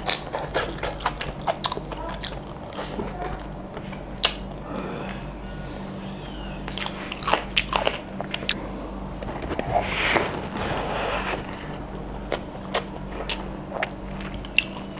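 Wet chewing and lip-smacking of someone eating mutton curry off the bone by hand, a steady string of short clicks and smacks. A steady low hum runs underneath.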